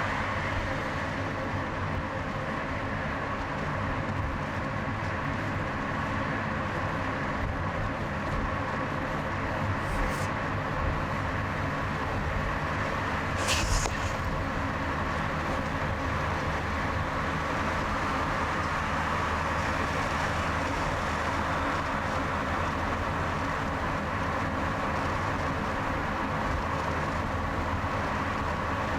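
Steady road and engine noise of a car driving on a multi-lane highway in traffic. A brief sharp sound comes about ten seconds in and a louder one a few seconds later.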